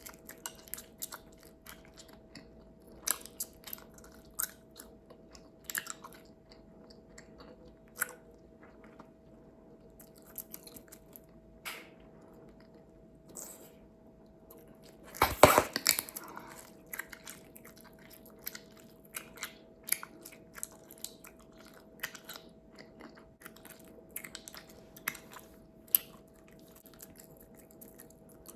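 Bubblegum being chewed close to the mouth: wet smacks and sharp snaps, irregular, every second or so. A much louder cluster of pops and snaps lasts under a second about halfway through.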